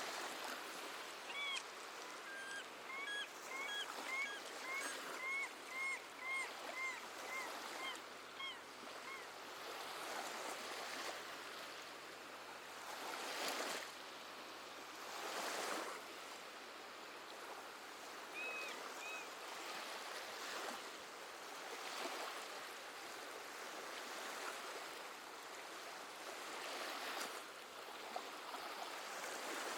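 Gentle sea waves washing in and out, several surging louder in turn, with seabirds calling: a quick series of short calls, about two a second, over the first nine seconds, and a few more calls later.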